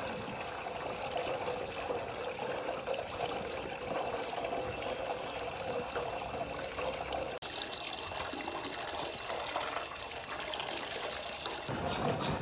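Water running and trickling steadily, with a brief break about seven and a half seconds in.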